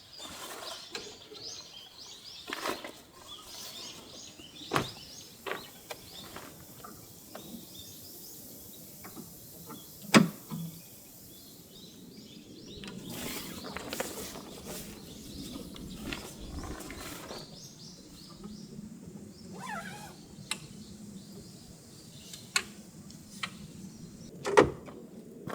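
Irregular clicks and knocks, the loudest about ten seconds in and again near the end, with short bird chirps in the first few seconds.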